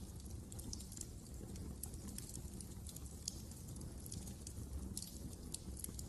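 Fire in a fireplace crackling: irregular sharp crackles and pops, several a second, over a low steady rumble of the flames.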